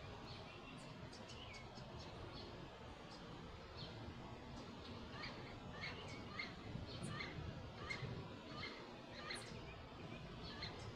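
Many short, high chirps from small animals, scattered and growing busier after about five seconds, over a steady low background hiss.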